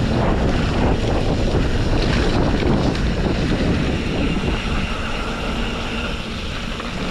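Wind buffeting an action camera's microphone, mixed with the rumble of a mountain bike riding downhill over a rough trail. The noise is loud and steady, with a heavy low rumble, and eases slightly in the second half.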